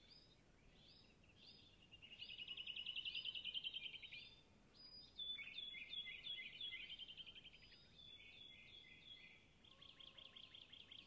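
Small birds calling faintly. There are fast trills of short, high repeated notes, loudest about two to four seconds in and again near the end, with slower series of short down-slurred notes between them.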